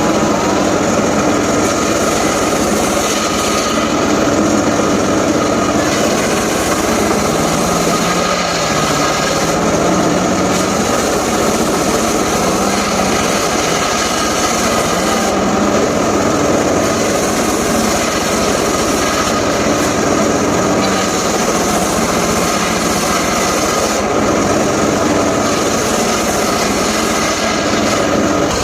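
Engine-driven saw cutting through mahogany wood, running steadily at high speed, its engine note dipping and recovering as the blade takes load.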